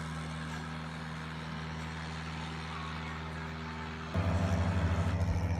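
An engine idling with a steady low hum, then a louder engine with a fast, even pulsing beat from about four seconds in.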